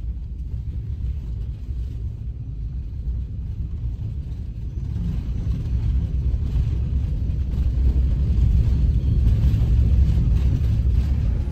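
Passenger train running, a steady low rumble that grows somewhat louder about halfway through.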